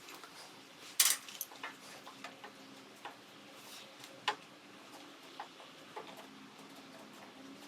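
Scattered light clicks and taps of small parts and tools being handled on the garden tractor, the sharpest about a second in and another past the four-second mark, over a faint steady hum.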